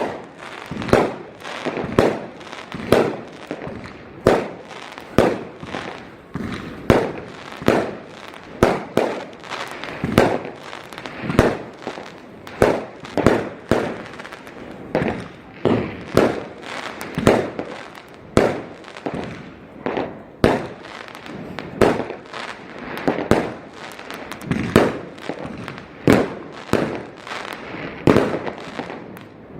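Fireworks display going off: a steady barrage of aerial shell bursts, bangs about once a second, each trailing off in a short echoing rumble.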